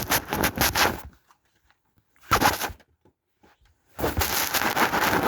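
Three bursts of rustling, crunching noise with dead silence between them: one at the start, a short one about two and a half seconds in, and a longer one from about four seconds in.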